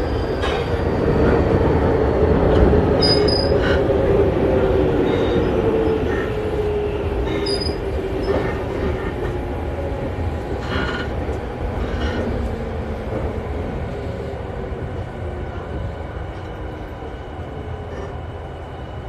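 Tokyu 5000 series electric train running on rails, its motor tone sliding slowly down in pitch as the train slows. The overall running sound eases off gradually.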